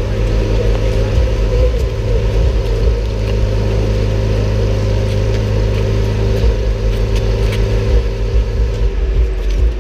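Bugatti Centenario's quad-turbo W16 engine running at a steady, unchanging note, not revving, with its low note dropping away near the end.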